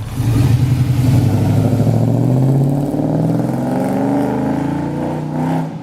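A car's V8 exhaust through Magnaflow mufflers, accelerating with its note rising steadily in pitch, then holding as it runs on before cutting off suddenly at the end.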